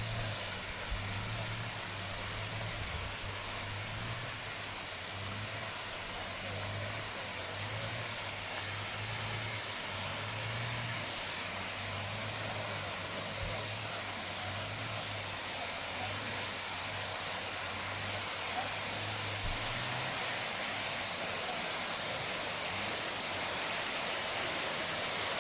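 Steady rushing hiss of a waterfall, growing slightly louder over time, with a faint low hum that comes and goes until about twenty seconds in.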